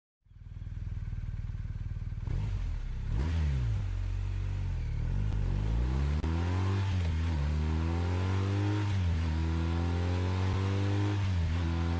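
BMW motorcycle engine and exhaust, first running steadily and then accelerating. The pitch climbs and drops back sharply about four times, as at each gear change.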